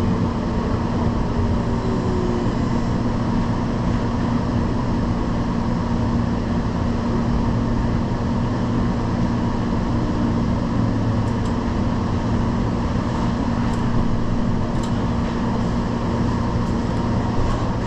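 Steady running noise inside a moving vehicle, an even rumble with a constant hum that does not change.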